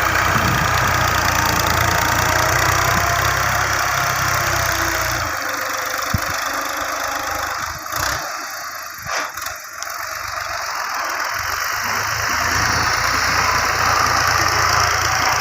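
Tractor diesel engine running with a low rumble that drops away about five seconds in, a few short knocks in the middle, then builds back up toward the end.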